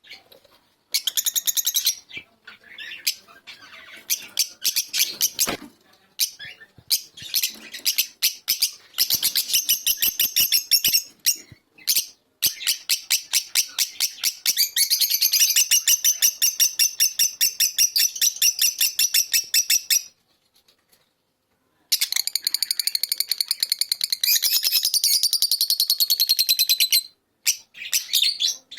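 Fischer's lovebird chattering: long runs of rapid, high-pitched chirps, broken by short pauses and one silent gap of about two seconds roughly two-thirds of the way through.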